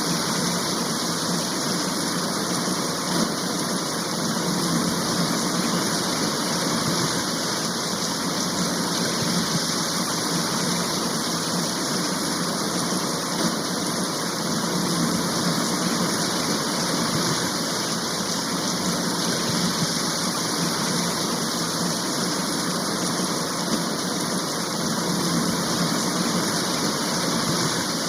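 Heavy rain shower falling steadily: an even, unbroken hiss of rain.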